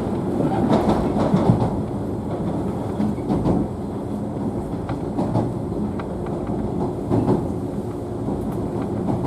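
A JNR 113-series electric train running along the track, heard from inside the car: a steady rumble of wheels on rail under a low hum. The wheels clack over rail joints several times, unevenly spaced.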